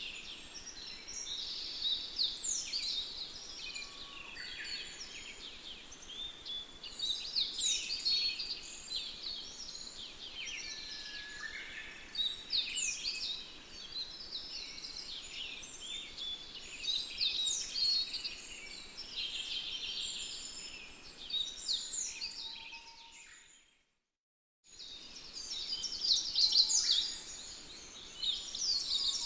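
Birds chirping and singing, many quick overlapping calls and trills, swelling and easing every few seconds. The sound fades out to silence for about a second near the end, then comes back.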